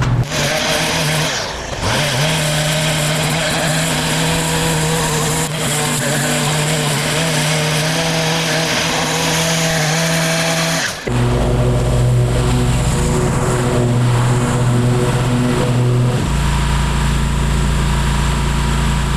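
Engine of lawn and brush-clearing machinery running steadily at working speed, its pitch and tone jumping abruptly about a second and a half in, about eleven seconds in and again about sixteen seconds in.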